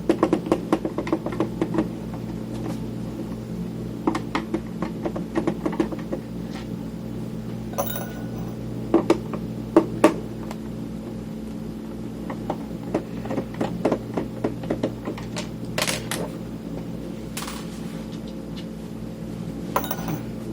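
A screwdriver turning screws out of a cassette multitrack recorder's casing: runs of small rapid clicks, with a few sharper taps as screws and tools are set down, over a steady low hum.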